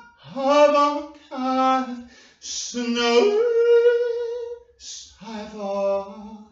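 A single voice singing unaccompanied in long held notes, one sliding up to a new pitch about three seconds in, with short breaks between phrases.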